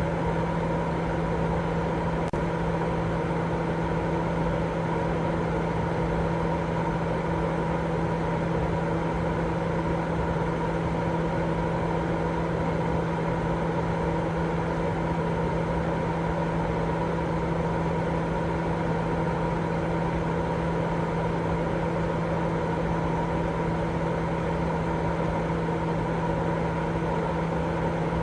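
Continuous white noise for baby sleep, steady and unchanging, heavier in the low and middle range, with a steady low hum and a fainter higher tone running through it.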